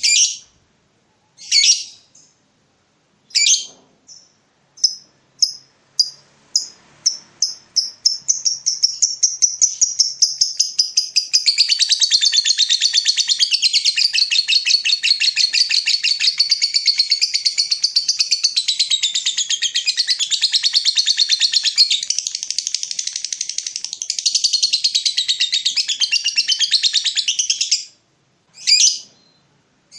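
A songbird in vigorous full song: a few separate sharp calls, then a run of high notes that speeds up into a long, fast, unbroken song. The song stops abruptly near the end, and single calls follow.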